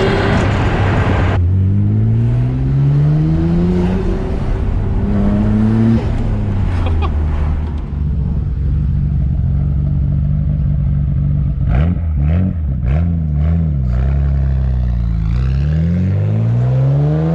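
1992 Nissan Skyline R32 GT-R's twin-turbo RB26DETT straight-six accelerating, its pitch climbing and dropping through several gear changes, then running steadily before climbing again near the end. There are a few sharp clicks in the middle.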